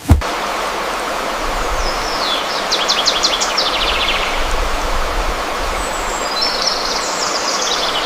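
Steady rushing of running water that cuts in with a thump at the start. A bird sings a fast run of high chirps about two seconds in and again near the end.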